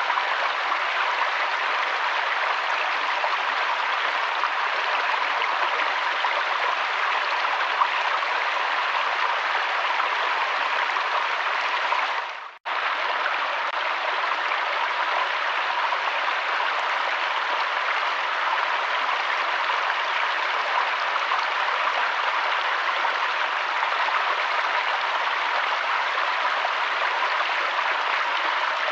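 River water flowing in a steady rushing hiss. It cuts out sharply for a fraction of a second about halfway through, then carries on unchanged.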